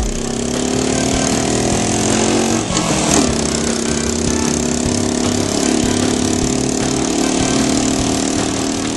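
Dual-sport motorcycle engine running steadily, its pitch dropping about three seconds in as the revs change, over a steady hiss.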